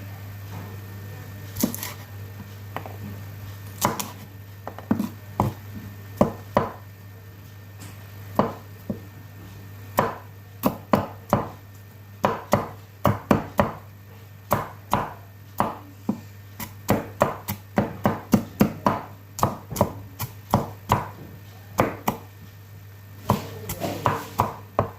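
Knife chopping food on a cutting board: a long run of sharp, irregular chops, a few scattered ones at first, then coming steadily at about two a second from about ten seconds in.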